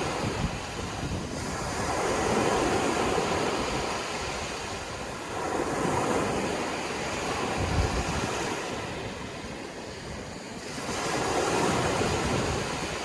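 Sea waves breaking and washing on a shore. The surf swells and recedes about three times, with a low rumble of wind on the microphone.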